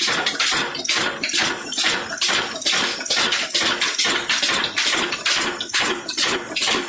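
Old Ruston Hornsby stationary diesel engine running, with a steady, rapid beat of about four to five strokes a second.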